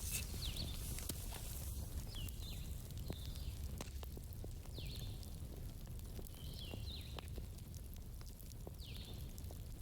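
Campfire of burning wood crackling, with sharp pops scattered over a steady low rumble. Short high chirps, bending down in pitch, recur every second or two in the background.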